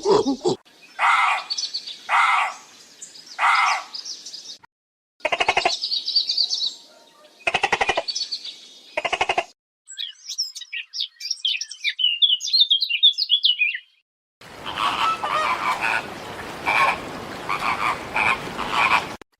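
Different animal calls one after another, in separate clips: three short harsh calls, then runs of rapid rattling croaks, then a spell of quick high bird chirps, then a longer stretch of noisy calling.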